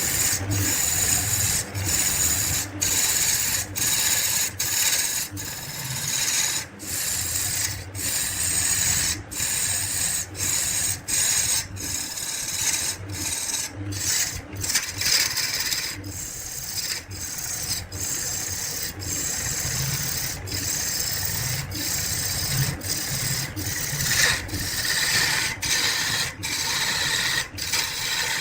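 Spinning wood on a lathe being worked with a tool or abrasive: a steady rasping hiss over the lathe's low hum, broken by frequent brief gaps.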